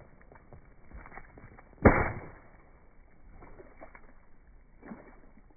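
A rubber-band-wrapped watermelon bursting: one sharp, loud bang about two seconds in that dies away within half a second, among a few faint clicks.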